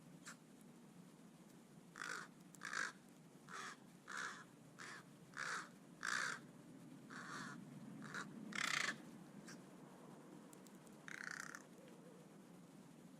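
American crow cawing: a quick run of about ten harsh caws, then a single longer caw near the end.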